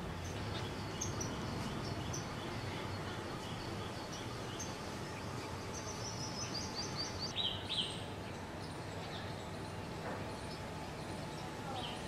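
Birds chirping and calling over a steady outdoor background hiss, with a quick run of high chirps about six seconds in and two louder calls just before the eight-second mark.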